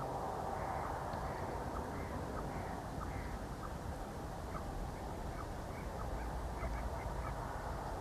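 A bird calling in a series of short, evenly spaced notes about twice a second, turning to shorter, fainter notes partway through, over steady background noise.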